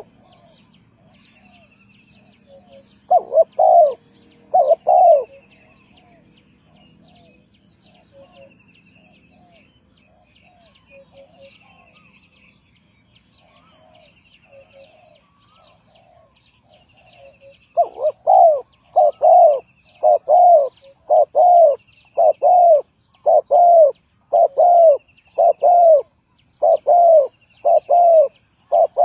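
Spotted dove cooing loudly in short repeated phrases: two coos a few seconds in, then a long run of coos in the last third. Fainter coos and high chirps of small birds sound throughout.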